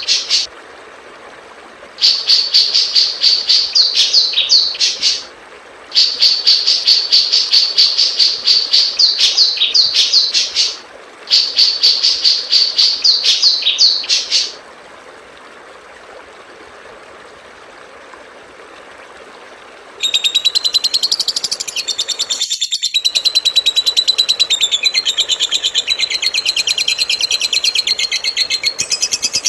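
Recorded songbird song: phrases of fast, rhythmic, high chattering notes, each a few seconds long with short breaks. Then a few seconds of plain hiss, and about two-thirds of the way in a denser, continuous fast trill starts and runs on.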